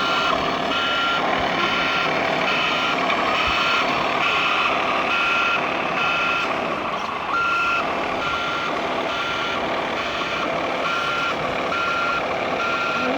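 Reversing alarm of a model truck's sound module beeping steadily, a short high beep repeating a little over once a second, over a continuous background din.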